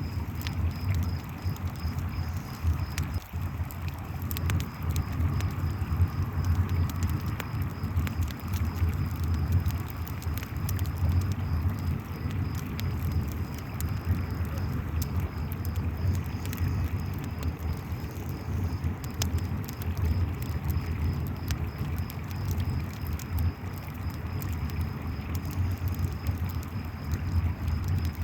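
Layered night ambience: a river flowing with a steady low rumble, a campfire crackling with scattered sharp pops, and crickets chirping in a steady pulsing trill.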